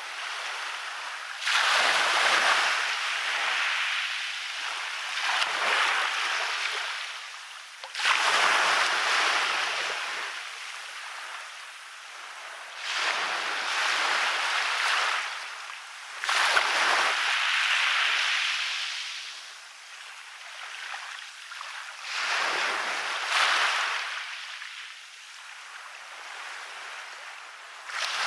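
Waves breaking on a beach, one after another every few seconds. Each arrives as a sudden rush of surf and washes away, fading before the next.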